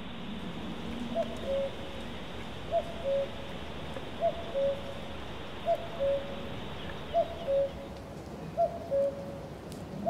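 A bird giving a low two-note hooting call, a short higher note followed by a longer lower one. The call is repeated six times, about every one and a half seconds, over a steady outdoor hiss.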